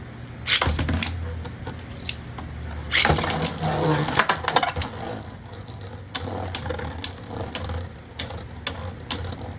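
Beyblade Burst spinning tops launched into a plastic stadium and battling: a steady whir with sharp clicks as the tops strike each other and the stadium wall.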